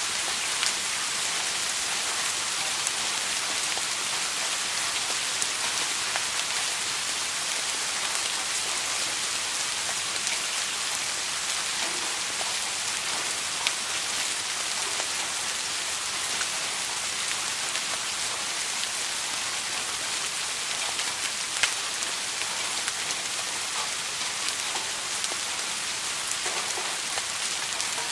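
Steady rain falling, an even hiss with occasional sharper drops landing close by.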